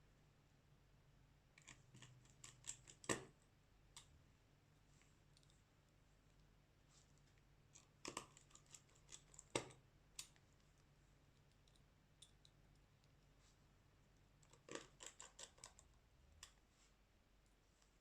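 Small sharp clicks and taps from handling a smartphone and repair tools, in three short clusters about two, eight to ten, and fifteen seconds in, over a faint steady low hum.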